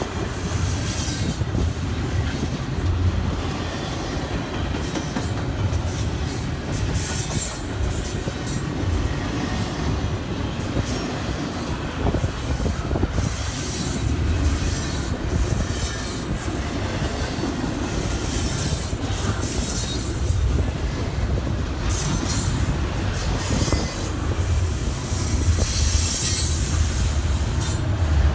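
Freight train cars rolling past, with a steady low rumble and metal wheels squealing against the rail now and then.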